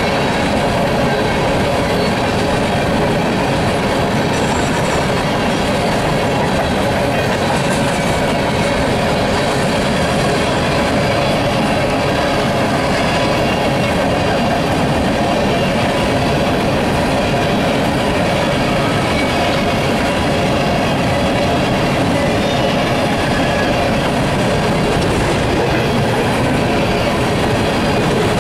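Empty coal gondolas of a unit freight train rolling past close by: a steady, loud rumble and clatter of steel wheels on the rails.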